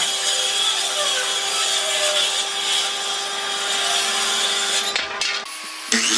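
A power tool working wood, running steadily with a constant hum, then stopping about five seconds in, followed by a few short knocks.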